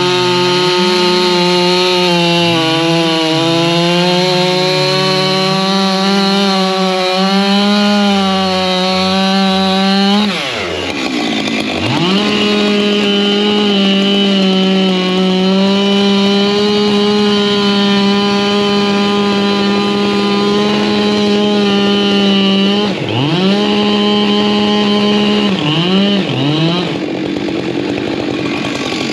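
Two-stroke chainsaw running at full throttle while cutting firewood, its pitch wavering for the first ten seconds. About ten seconds in the throttle is let off and the engine note falls sharply, then climbs back to full revs. It holds steady until it is briefly let off again two or three times near the end.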